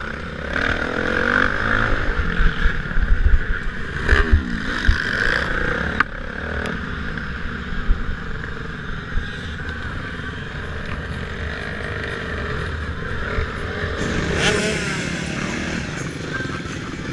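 Motocross motorcycle engines running hard through a race, with noise throughout and a rising rev about four seconds in and again near the end.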